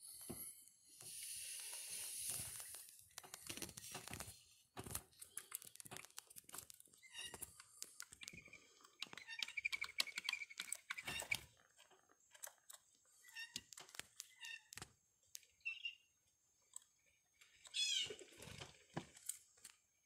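Scattered sharp clicks and knocks with short bird calls, and one longer, wavering call about two seconds from the end.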